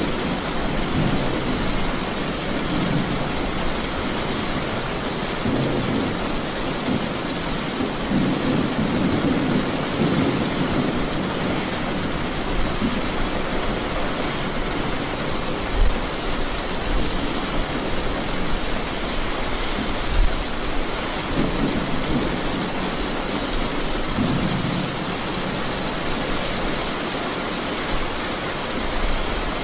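Steady rain falling, with thunder rumbling low several times, the longest roll about a third of the way in and another near the end.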